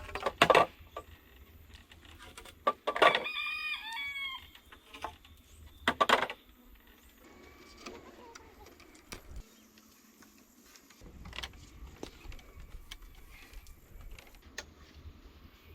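A rooster crowing once, about three seconds in, for about a second and a half. Sharp knocks, louder than the crow, sound about half a second in and again about six seconds in.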